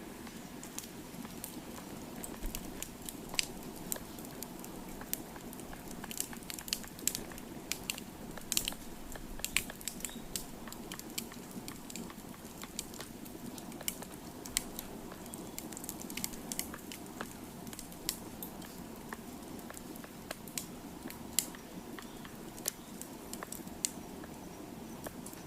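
Wood fire crackling, with irregular sharp pops and snaps over a steady low rush of burning.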